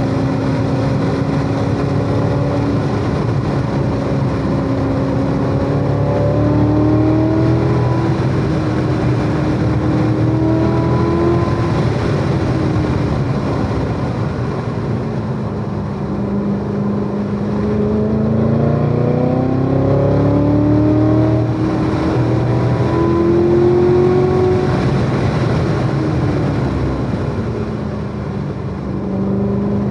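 Supercharged 6.2-litre LT4 V8 of a C7 Corvette Z06 driven hard on track. Its note rises and falls with throttle and gears: it drops about half-way through, climbs again and falls near the end.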